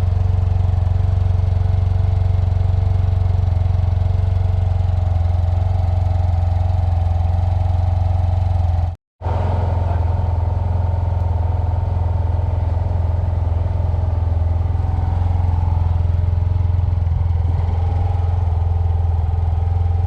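Yamaha TMAX 560 scooter's parallel-twin engine idling steadily, with a low, even note. The sound cuts out for a moment about nine seconds in, then resumes.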